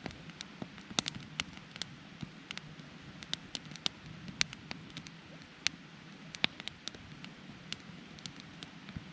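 Wood campfire crackling, with sharp pops at irregular intervals over a low, steady rush of burning.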